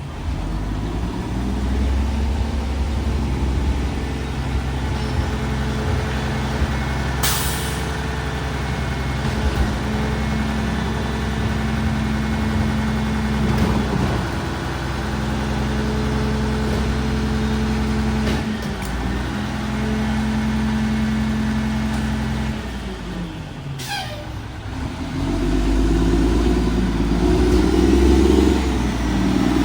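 Garbage truck's diesel engine running, its revs stepping up and down and rising loudest near the end. Two short air-brake hisses, about seven seconds in and again about 24 seconds in.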